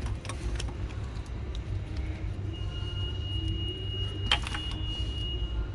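Light clicks, then a sharper snap about four seconds in, from plastic clips and wiring connectors being worked loose on an engine's intake. Under them is a steady low rumble, and a thin high tone runs through the second half.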